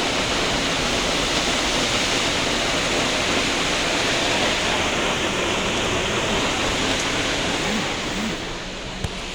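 Heavy rain falling steadily, a dense even hiss. It eases a little about eight seconds in, and a single sharp click comes near the end.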